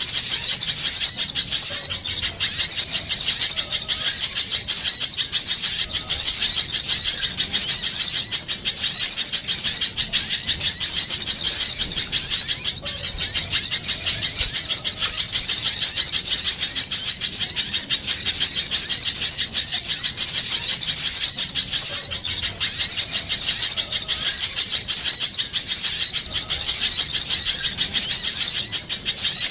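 Dense, continuous high chirping of many small birds calling at once: a small-bird lure (pikat) recording, meant to draw small birds in.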